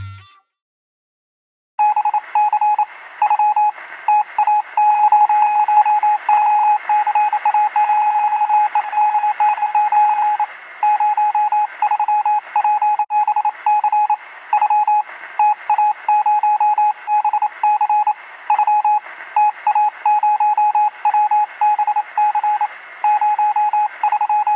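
Morse code: a single steady beep keyed on and off in short and long pulses, over radio static, with a thin telephone-like sound. It starts about two seconds in, after a brief silence.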